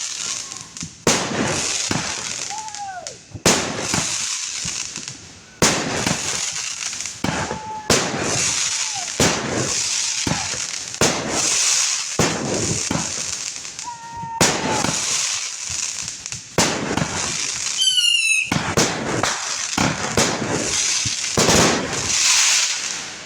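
Consumer fireworks going off in quick succession: a sharp bang every second or two, each followed by a crackling hiss, with a short whistle now and then.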